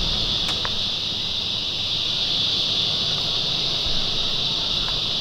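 Steady outdoor insect chorus, a continuous high-pitched buzzing trill that holds at one level throughout.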